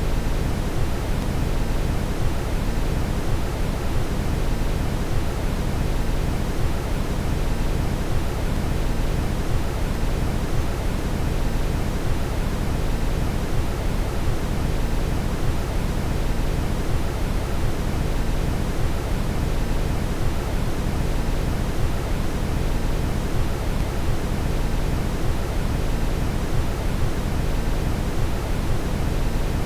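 Steady brown noise: an even, deep rushing hiss with most of its weight in the low end and no change over time.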